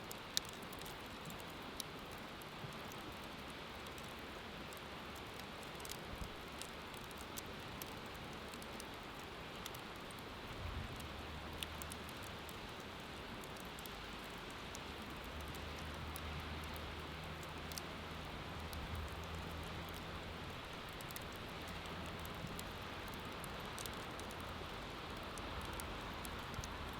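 Wood bonfire crackling with scattered sharp pops over a steady rushing background of river water. A low hum comes in about ten seconds in and stays.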